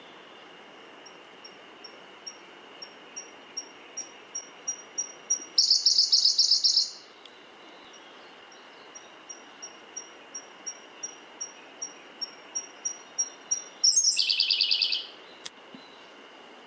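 Siberian blue robin singing two songs, each a run of thin, evenly spaced high notes that grow louder and end in a loud, fast rattling trill about a second long. A steady high-pitched hum runs underneath.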